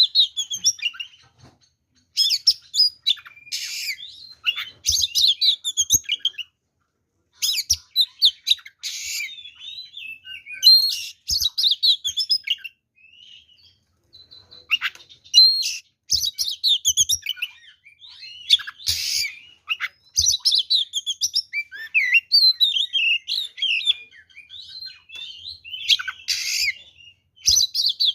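Oriental magpie-robin (kacer) singing a fighting song, rapid varied phrases of high whistles, trills and scratchy rasping notes separated by brief pauses.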